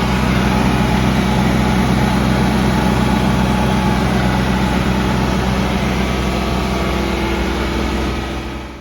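Tractor engine running steadily at a constant speed while working manure, then cutting off abruptly at the end.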